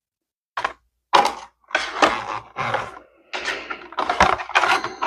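Crinkling and clacking of a Hot Wheels blister pack being handled and turned over: stiff plastic bubble and card crackling in several irregular bursts with a few knocks.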